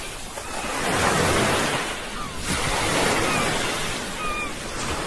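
Sea waves breaking and washing on a shore, a steady hiss that swells and ebbs about every two seconds.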